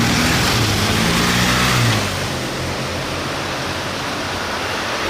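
Loud, steady engine roar with a low hum beneath it that drops away about two seconds in, leaving an even rushing noise.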